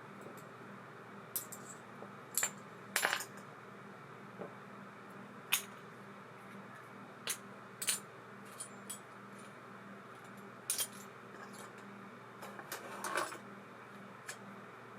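Small metal parts of a baitcasting reel clicking and clinking as they are handled and set down, about a dozen short, sharp clinks at irregular intervals over a faint steady hum.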